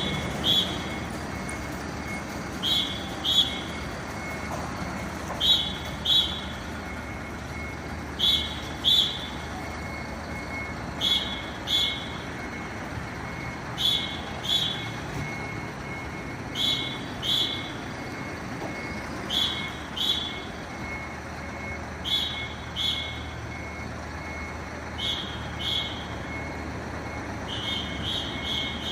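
A fire vehicle's warning beeper sounding short high beeps in pairs, about every three seconds, over the running engine; near the end it switches to a faster run of beeps.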